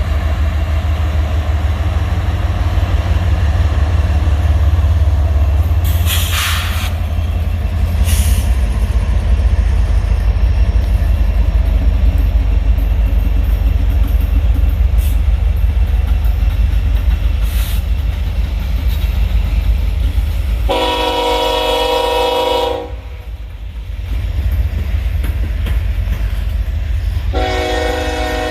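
Diesel freight locomotive rumbling low and heavy as the train passes. Its air horn sounds a chord for about two seconds three-quarters of the way in, then again near the end.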